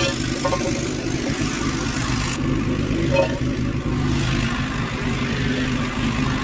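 Pressure washer running steadily, a machine hum under the hiss of the spray; the hiss thins out about two and a half seconds in.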